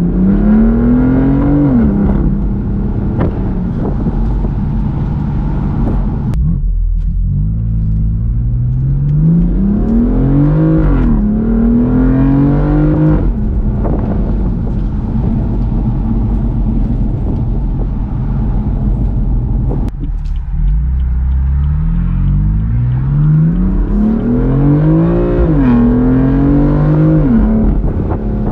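BMW M4's twin-turbo inline-six engine and exhaust under hard acceleration: the revs climb, drop sharply at an upshift and climb again, in three pulls, with a steadier stretch at lower revs in between.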